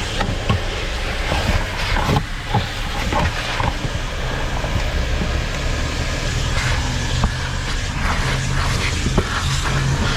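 Vacuum cleaner running steadily with a hissing suction noise and a low hum, broken by scattered short clicks and knocks.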